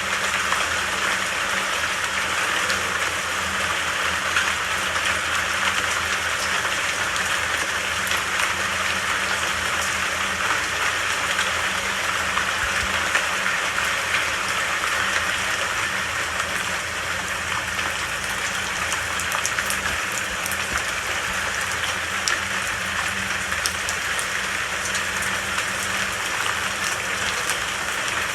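Steady rain falling, an even hiss of rainfall with small drops ticking through it and a low steady rumble underneath.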